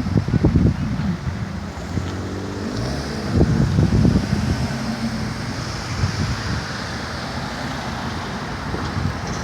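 Lotus sports car engine running under way, its pitch shifting up and down as it revs, with wind noise on the microphone.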